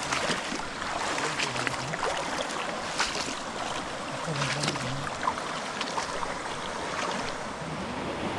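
Shallow stream water running steadily, with scattered sharp clicks and splashes and a faint murmur of voices briefly about halfway through.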